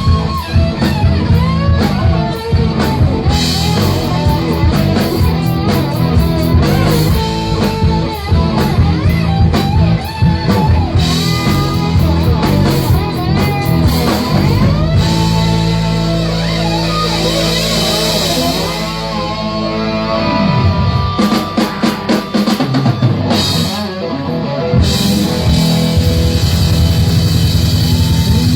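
Rock band playing an instrumental passage: electric guitar lead with bent notes over drum kit and bass. About halfway through a chord is held, then a low note slides down and a quick run of drum hits follows, and the full band comes back in for the last few seconds.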